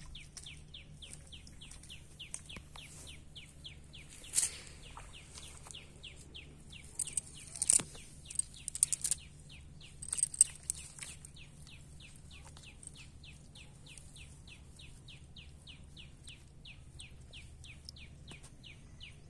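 A bird calling without a break: a short, high chirp sliding downward, repeated about three to four times a second. A few sharp clicks and rustles are louder than the calls, once about four seconds in and several times between about seven and eleven seconds, from the wet cast net being handled on the mud.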